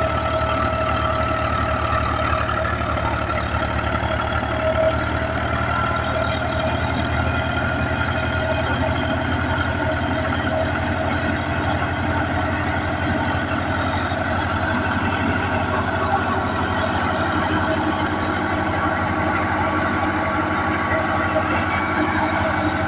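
Al-Ghazi tractor's diesel engine running at a steady speed, with an even low pulsing and a steady whine over it.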